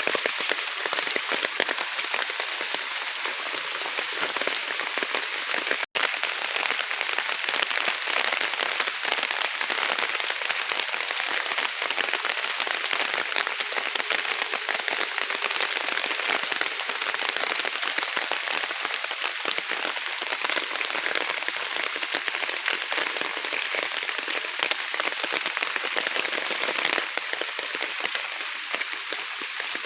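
Rain falling steadily in the forest, a dense, even patter of many drops. The sound cuts out for an instant about six seconds in.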